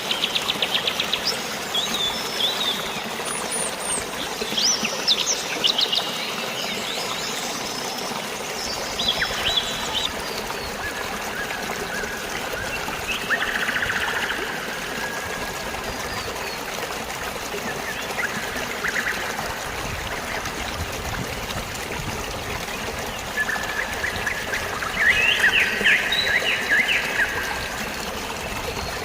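Steady flowing water, with birds chirping and trilling over it. There is a quick trill at the start, scattered chirps, and a livelier run of calls near the end.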